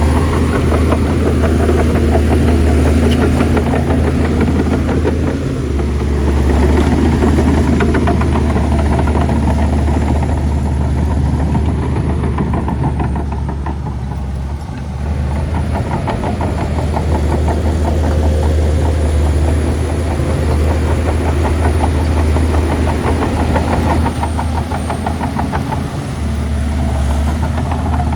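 Shantui bulldozer's heavy diesel engine running continuously under load, easing off briefly about halfway through and again near the end before picking back up.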